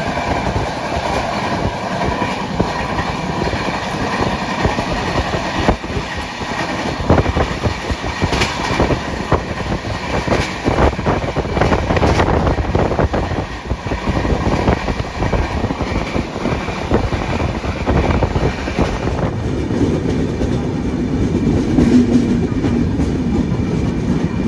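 Train running on the track: a steady rumble with the irregular clickety-clack of wheels over rail joints. About 19 seconds in, the sound turns duller and lower.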